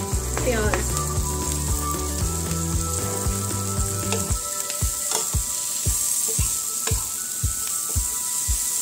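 Sliced onions sizzling in hot oil with fried garlic and green chillies in a frying pan, stirred with a spoon. Background music with a steady beat of about two thumps a second plays throughout; its heavy bass drops out about four seconds in.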